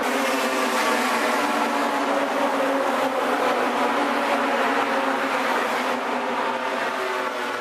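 A big pack of HQ Holden race cars running hard together, many engines overlapping like an angry swarm of bees, fading a little near the end.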